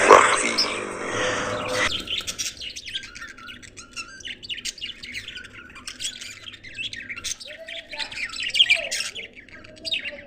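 A flock of budgerigars chirping and chattering in quick, overlapping calls. A louder, hissier sound fills the first two seconds and stops abruptly.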